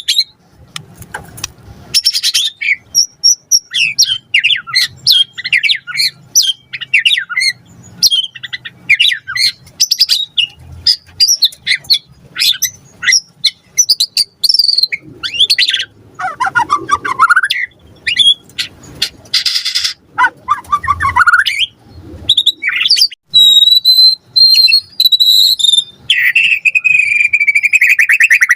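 White-rumped shama singing a fast, varied song of quick chirps and whistled sweeps. In the second half it holds a high whistle, then gives a lower, buzzy falling note near the end.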